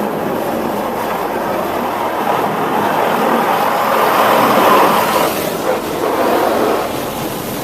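Water jets from a touch-free automatic car wash's spray arm drumming on the car body, heard from inside the cabin. The rushing spray swells loudest about halfway through as the arm passes close, then eases a little.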